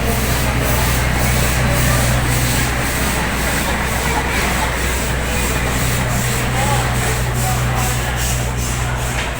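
Steam locomotive working, with a steady low hum under a rushing noise and a faint rhythmic beat about twice a second.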